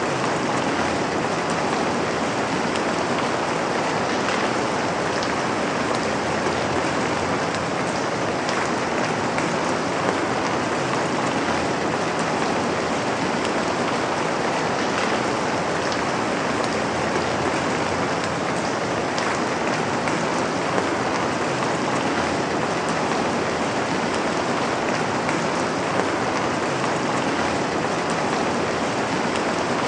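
Steady rain falling onto a surface, a dense, even hiss with faint scattered drop ticks.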